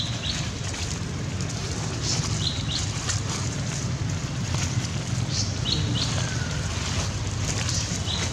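A bird calling a short, high double chirp about every three seconds, over a steady low rumble.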